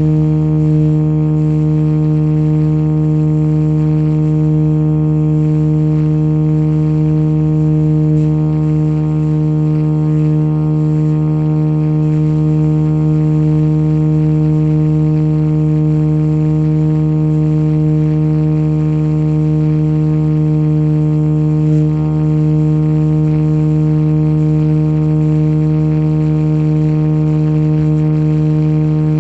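Radio-controlled scale Jet Ranger model helicopter flying, its motor and rotors giving a loud, steady hum at a constant pitch.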